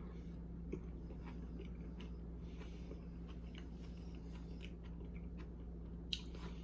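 A person chewing a mouthful of baked spaghetti squash with melted vegan cheese: soft, close-up mouth and chewing sounds with faint clicks, and a sharper click about a second in and again near the end, over a steady low hum.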